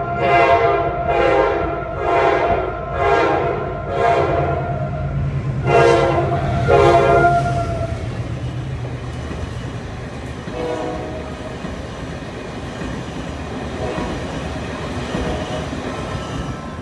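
General Electric diesel locomotive's horn sounding a string of about five short blasts, then two more, over the low running of its diesel engine as it passes. After that the horn stops and the rumble and wheel clatter of the passenger coaches rolling by gets gradually quieter.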